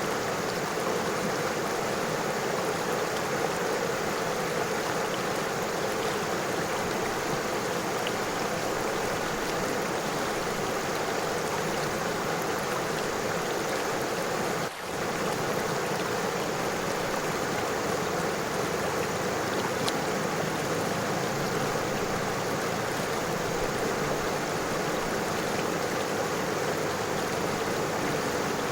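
River water flowing and rippling over stones, a steady, even rush with a momentary dip in level about halfway through.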